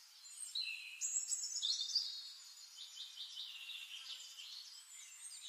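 Birds chirping and twittering, faint and high-pitched, in quick short calls and trills. They are strongest in the first two seconds and thin out to softer chirps after.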